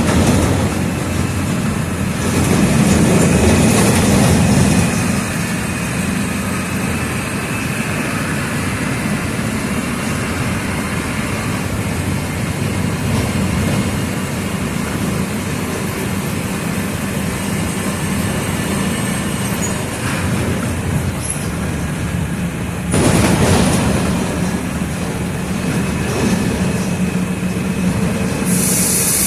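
Mercedes-Benz OF 1722M city bus's diesel engine running on the move, growing louder twice as it pulls away, about 3 seconds in and again about 23 seconds in. A hiss of air brakes starts near the end.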